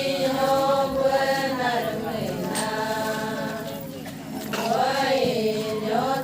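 Voices chanting an Adi ponung song in long held notes that waver and bend slowly in pitch, easing off briefly about four seconds in before swelling again.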